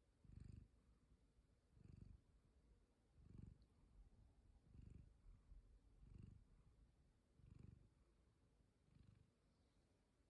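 Domestic cat purring softly, in an even rhythm of about one swell every second and a half as it breathes in and out.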